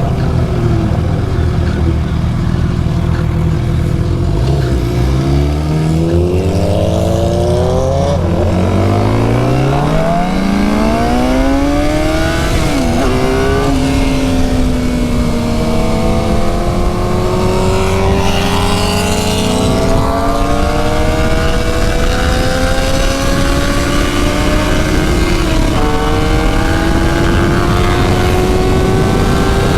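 Suzuki GSX-R750 inline-four engine ticking over steadily for about five seconds, then pulling away: its pitch climbs, drops at upshifts about a third and nearly all the way through, and keeps rising through the gears, with wind rush growing as speed builds.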